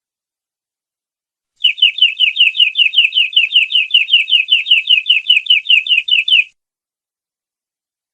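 Domestic canary singing one trill of rapidly repeated falling notes, about six a second, lasting about five seconds before it stops abruptly. It is a canary bait song, played to prompt other canaries to sing.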